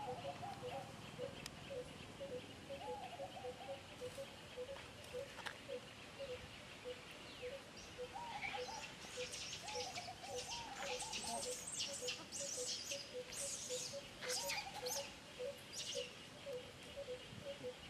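Birds calling outdoors: a steady repeated call alternating between two pitches about three times a second, short warbling calls now and then, and a burst of high chirps from about eight seconds in until near the end.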